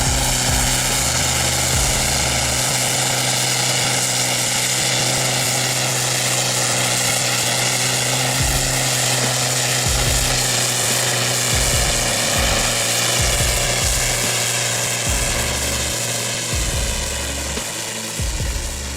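A heavy engine running steadily with a loud, even droning hum, its pitch holding nearly constant, with uneven low rumbling underneath.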